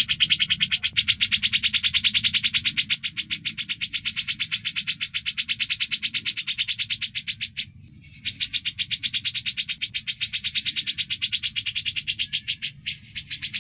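A songbird singing a long, fast, rapidly repeated chattering trill with two brief pauses, over a faint low hum.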